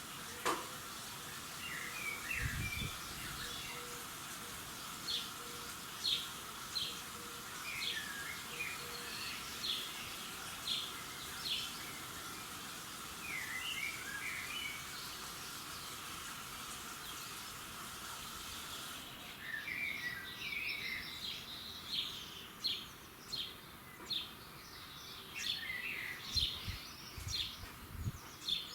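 Several songbirds singing in a dawn chorus: short chirps and twittering phrases come every second or so over a steady background hiss. A few soft low thumps are heard, near the start and again near the end.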